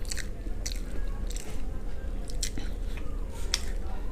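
A person chewing and crunching a mouthful of fried chicken close to a clip-on microphone, with short crisp crunches and mouth smacks at an uneven pace.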